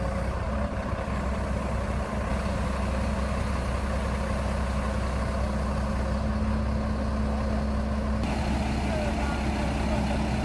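Heavy diesel engine of a truck-mounted crane running steadily at a constant speed, a low even hum with no change in pitch.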